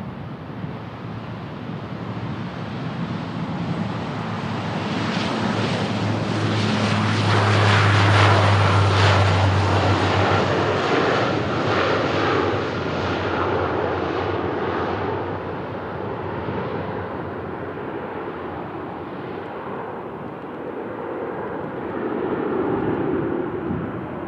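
Bombardier Dash 8-400 turboprop passing by on departure, its twin propellers' steady drone swelling to a peak about 8 seconds in and then fading away, with a strong low hum at its loudest.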